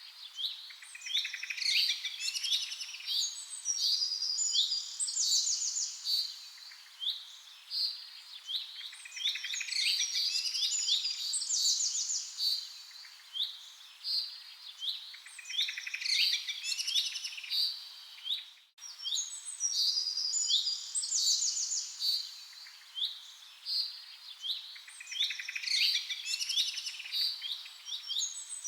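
Several small songbirds chirping and trilling in quick, overlapping phrases, with a brief gap about two-thirds of the way through.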